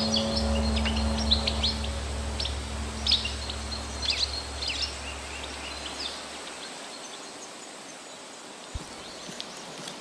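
Birds chirping in short high calls over a steady hiss. The calls thin out after about five seconds. A low hum underneath fades away about six to seven seconds in, and there is a single click near the end.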